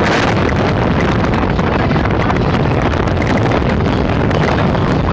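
Wind rushing over the microphone from a moving car, a loud steady rush with traffic and road noise underneath.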